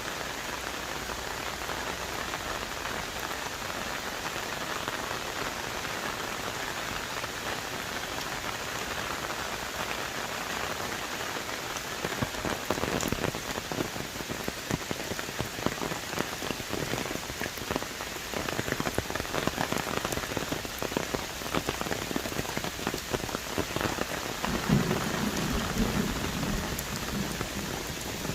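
Heavy rain falling on forest trees, a steady hiss. From about halfway it turns louder and more uneven, with dense patter of large drops close by. A low rumble comes near the end.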